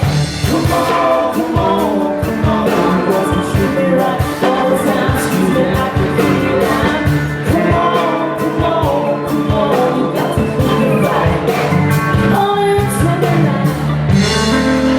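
A live band playing a blues-rock song with drums, and singing over the band.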